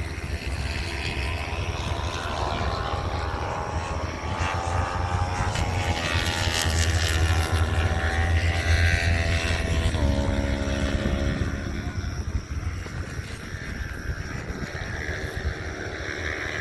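Racing motorcycle engines at full speed passing by on track, their whine sliding down in pitch as a bike goes past about ten seconds in.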